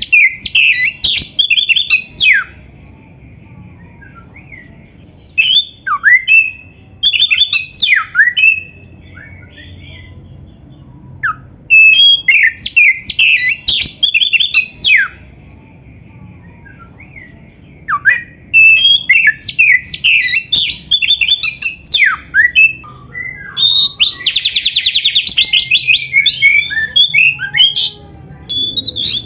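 Oriental magpie-robin (kacer) singing a full, varied song: loud bursts of sharp whistles, slurred notes and chattering phrases, separated by pauses of a few seconds. Near the end, a sustained rapid trill runs straight into more phrases.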